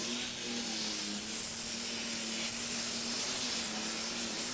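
Engine of a tractor-pulling machine running steadily, with a constant high whine over it.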